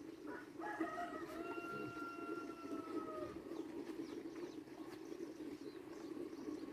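A rooster crowing once in the distance, a short rising start and then a long held note that sinks slightly in pitch, over a steady low background drone.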